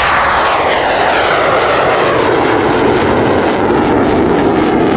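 MiG-17F jet fighter's afterburning VK-1F turbojet, loud on its takeoff run with the afterburner lit; it comes in suddenly at the start and its pitch sweeps steadily downward as the jet passes.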